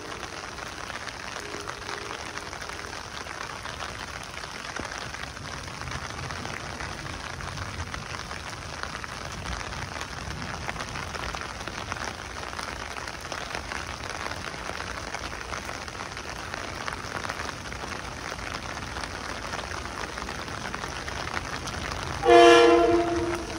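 Heavy rain pouring steadily onto the tracks and platform. Near the end an approaching Metro-North train sounds its horn in one loud chord-like blast lasting about a second.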